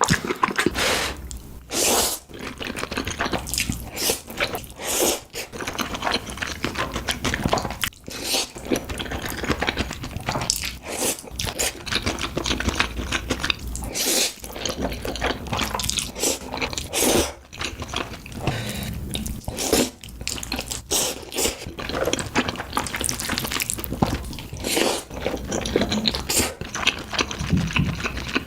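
Close-miked eating sounds: crunching bites and wet chewing, as a dense, irregular run of crisp crackles.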